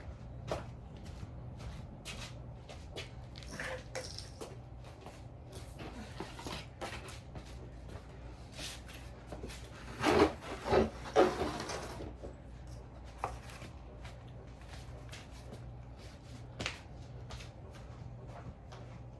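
Household things being handled and moved: scattered knocks, clicks and rubbing, with a louder run of knocks about ten to twelve seconds in. A steady low hum sits underneath.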